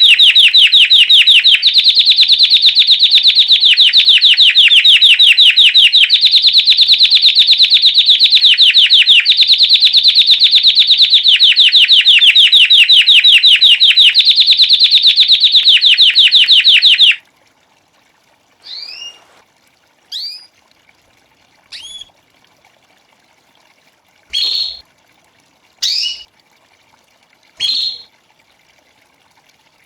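Belgian canary singing a long, very rapid rolling trill, the classic "campainha" (bell) song, in several linked phrases, breaking off abruptly about two-thirds of the way through. Six short chirps follow, spaced a second or two apart.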